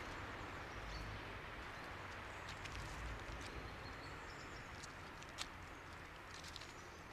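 Quiet outdoor ambience: a steady hiss of breeze with a low rumble, faint high bird chirps now and then, and a few light clicks, the sharpest about five seconds in.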